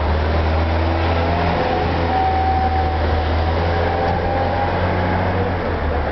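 A heavy engine drones steadily and low, then stops shortly before the end.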